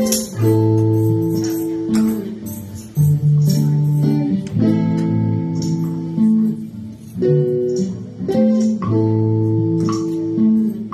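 Guitar playing a repeating chord progression, each chord struck and left to ring for a second or two.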